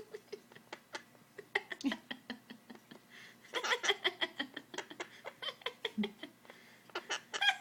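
Pet bird chattering in quick runs of short clicks and giggle-like notes, densest about halfway through and again near the end.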